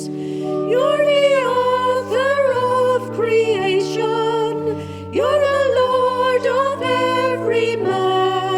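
A hymn being sung, the melody voice wavering with vibrato over held organ-like chords that change every second or two.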